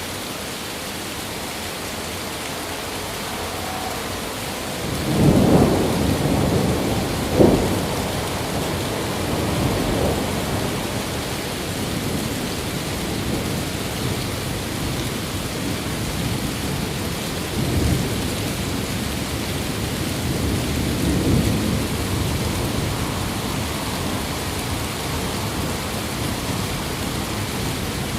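Steady rain with thunder. A rumble builds about five seconds in, peaks in a sharp crack a couple of seconds later, and rolls on, with fainter rumbles returning a few more times later.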